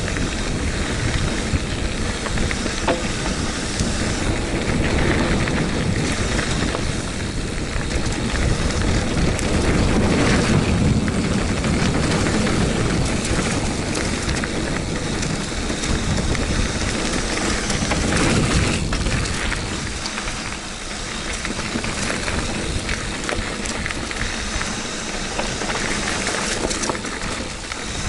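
Bicycle running down a rocky trail: a continuous rumble of tyres over stones and the bike rattling, with wind rushing on the microphone. It eases off a little about two-thirds of the way through.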